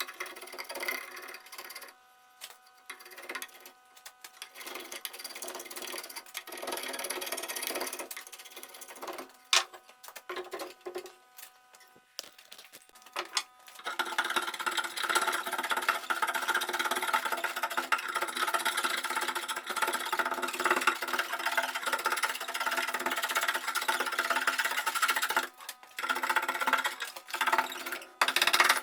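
Electric power tool running with a steady motor hum, with on-and-off abrasive contact noise in the first half, then continuous grinding contact from about halfway through that breaks off briefly twice near the end.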